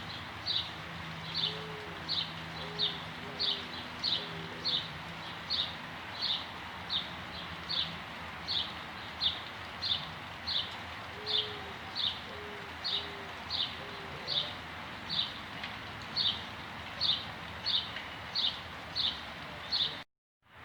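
Soft rain falling with a steady hiss, over a small bird repeating a short high chirp about one and a half times a second. A dove coos two short phrases of low soft notes, and the sound cuts off suddenly near the end.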